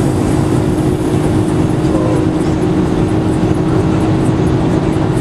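BMW M3 V8 engine droning steadily under road and wind noise, heard from inside the cabin while driving.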